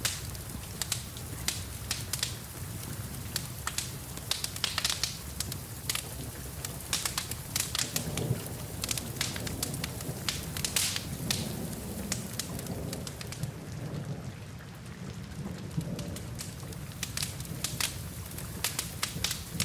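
Log fire crackling and popping in a fireplace over steady rain, with a low rolling rumble swelling in the middle like distant thunder.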